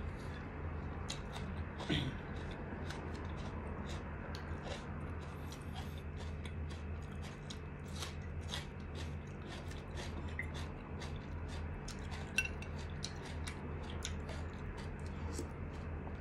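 A person chewing and eating close to the microphone: a steady run of small wet mouth clicks and smacks, with a slightly louder click about two seconds in and another near the end. A steady low hum runs underneath.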